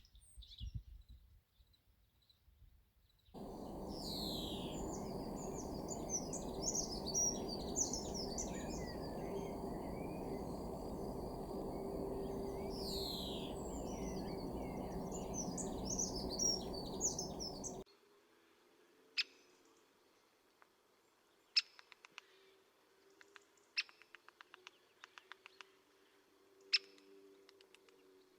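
Birds chirping and calling, with many short quick notes over a steady low noise that stops abruptly at a cut. After the cut come sharp, short single chip calls every second or two.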